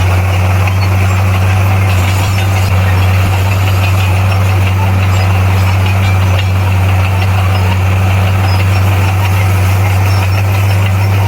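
Bulldozer's diesel engine running loudly at a steady pace, with a deep, even drone.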